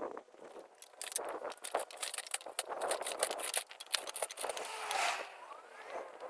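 Irregular metallic clinking and rattling with scrapes, loudest through the first five seconds, then quieter near the end.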